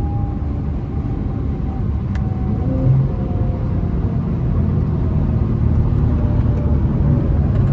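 Cabin sound of a tuned Infiniti Q50 3.0t's twin-turbo V6 cruising at highway speed in fifth gear: a steady low engine drone under road rumble, growing slightly louder.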